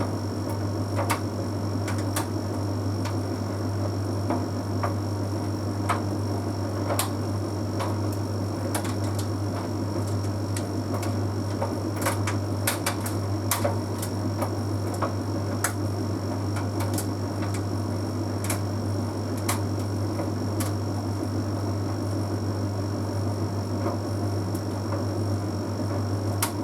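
Bosch Series 6 heat pump tumble dryer running mid-cycle: a steady low hum with a faint high whine, and irregular light clicks and taps as the load tumbles in the drum.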